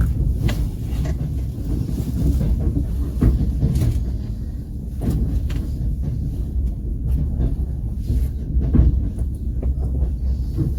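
Passenger train carriage in motion: a steady low rumble from the running gear, with a few irregular knocks and clunks of the wheels over the rails.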